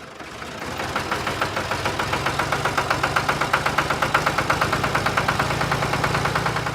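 Tractor engine running steadily with a fast, even chugging beat; it fades in at the start.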